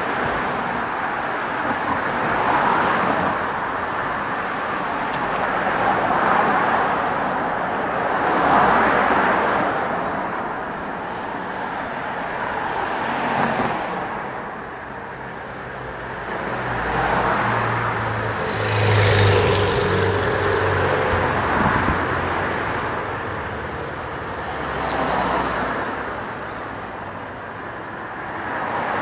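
Road traffic passing close by: a steady run of cars sweeping past one after another, each swelling and fading. About two thirds of the way through, a heavier vehicle with a deep engine hum goes by and is the loudest moment.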